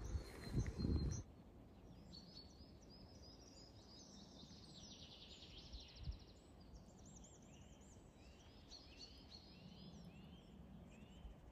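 Several songbirds singing and chirping in woodland, many short overlapping phrases. A muffled low rumble fills about the first second, and a single dull thump comes about halfway through.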